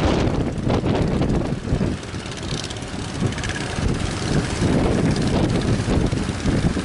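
Boat engines running, with strong wind buffeting the microphone in uneven gusts.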